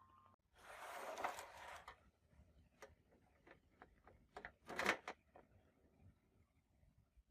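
Faint workbench handling noises: a brushing or scraping sound for about a second and a half, then a scattered series of small clicks and knocks, the loudest a short cluster a little past the middle.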